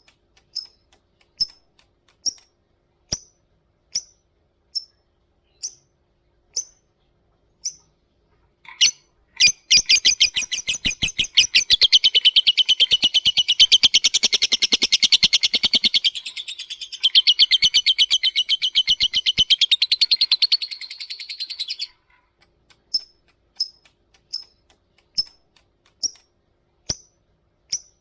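Lovebird calling: sharp single high chirps about one a second (the 'ngetik' call), then from about nine seconds a long, fast, rattling chatter (the 'ngekek' call) lasting about twelve seconds, then back to single chirps.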